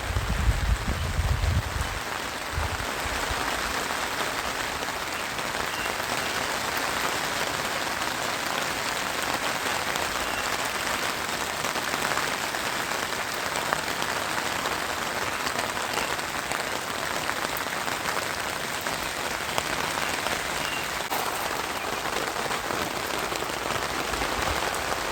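Steady rain falling, an even hiss with scattered drop ticks. A low rumble sounds during the first couple of seconds.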